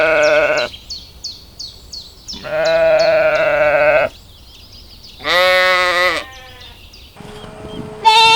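Sheep bleating: four loud bleats a couple of seconds apart, the second the longest and the last starting near the end. Behind the first few, a quick run of short high chirps repeats about three times a second.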